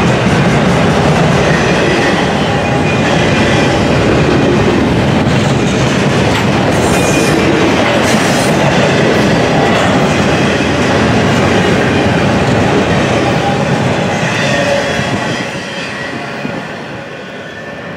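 Double-stack intermodal container cars of a freight train rolling past at speed: a loud, steady rumble and rattle of steel wheels on the rails, with a faint high squeal from the wheels now and then. About fifteen seconds in the sound falls away as the last car passes and the train moves off.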